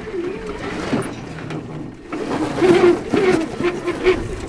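Electric drive motor of a converted Polaris RZR XP 1000 whining, its pitch wavering up and down with the throttle, with scattered knocks. It eases off about halfway through, then picks up again.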